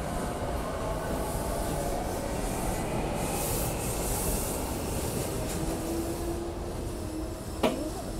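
SEPTA Regional Rail electric train rumbling as it pulls into the station and slows to a stop, with its wheels and brakes squealing in several thin tones. A single sharp knock comes near the end.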